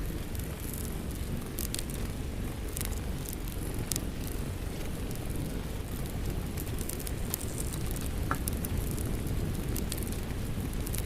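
Wood fire crackling, with scattered sharp pops, over a steady low rush of rain.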